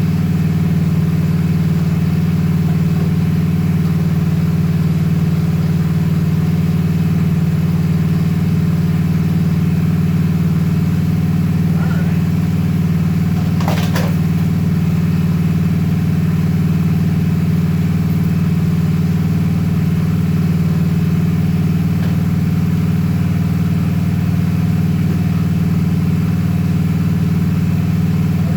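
Honda Shadow 750's V-twin engine idling steadily. About fourteen seconds in there is a brief knock.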